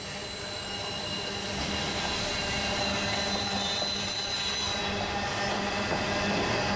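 Train rolling by with a steady high-pitched wheel squeal over a low rumble, growing louder over the first few seconds.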